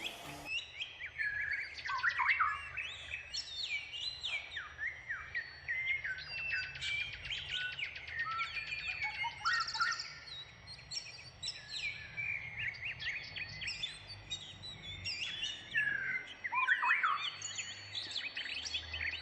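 Bird song: a dense, ongoing medley of varied chirps, whistled glides and fast trills.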